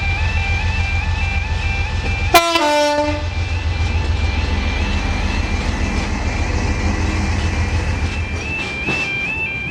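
A train's engine runs steadily under an electronic two-tone warning alarm that warbles without a break. About two seconds in, the train's horn gives one short blast that dips in pitch. Near the end the engine fades and a series of wheel clicks over rail joints begins.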